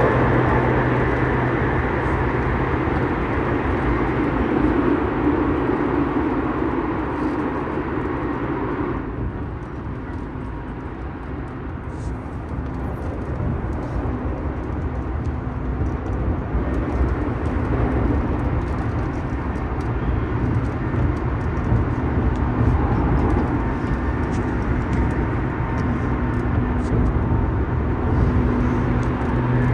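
Tokyu 5000 series commuter train running at speed, heard from inside the car: steady rumble of wheels on rail with a faint hum from the Hitachi IGBT-VVVF drive and its TKM-99 motors. It is louder and fuller for the first nine seconds, through a tunnel, then drops to a lighter running noise in the open.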